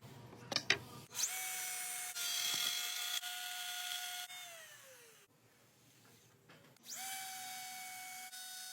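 A power tool cutting a dado in wood. A couple of sharp knocks under a second in, then the motor starts with a steady high whine over cutting noise, winds down with falling pitch about four to five seconds in, and starts again near seven seconds.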